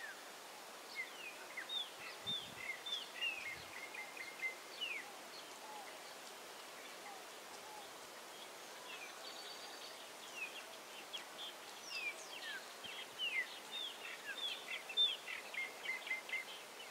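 Small birds chirping and calling over a steady outdoor hiss: many short, quick, descending chirps and whistled notes, busiest in the first five seconds and again from about ten seconds on, sparser in between.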